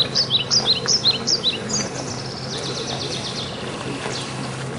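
A small bird chirping: a run of quick high chirps, about five a second, over the first second and a half, then a fast trill around the middle. A steady low hum runs underneath.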